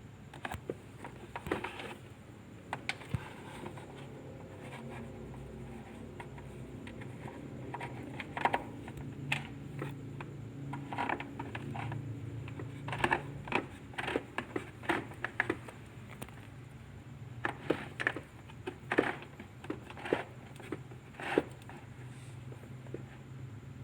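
Irregular clicks, taps and scrapes of hands handling tools and parts, over a steady low hum.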